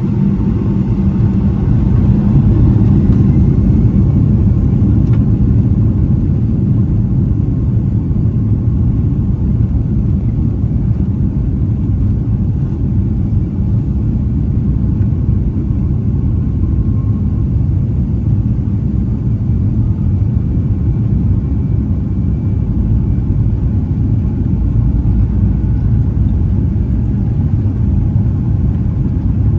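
Boeing 757-200 cabin noise heard from a window seat: a loud, steady low rumble of the jet engines and airflow.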